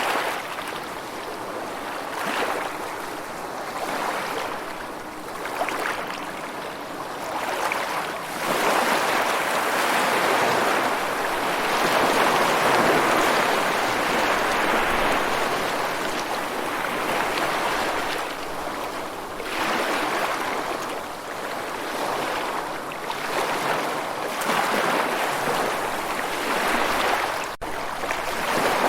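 Steady rushing water, swelling and ebbing in slow surges like waves washing in and out, with the biggest surge in the middle.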